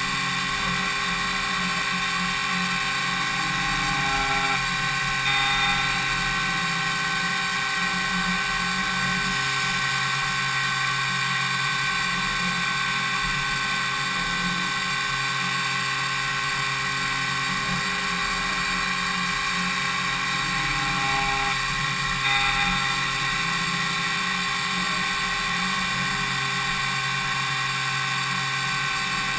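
DMU 70V 5-axis CNC machining centre milling impeller blades: a steady whine from the spindle and cutter, made of many held tones, that swells briefly twice.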